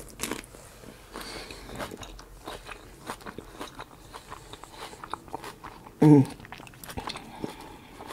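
Person chewing a crisp romaine lettuce taco wrap: many small sharp crunches and mouth clicks, with a brief sound of the voice about six seconds in.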